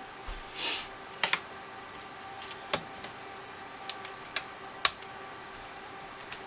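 Scattered sharp clicks and taps, with a short scrape about half a second in, from working at the plastic case of a TI-84 Plus calculator to get it open. A faint steady hum lies underneath.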